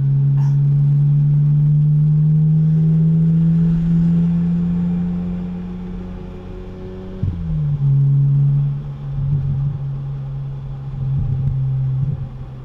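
The 2006 BMW Z4 M's inline-six, with its muffler deleted, is heard from inside the cabin pulling under throttle, its note rising slowly. About seven seconds in the pitch drops sharply, and the engine then runs on at a lower, wavering note.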